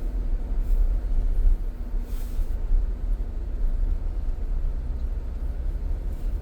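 Car cabin noise while driving: a steady low rumble of the engine and tyres, with a brief hiss about two seconds in.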